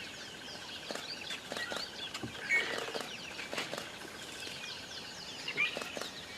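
A flock of birds chirping and twittering without a break, with a few brief sharp sounds among the calls, the loudest about two and a half seconds in and again near the end.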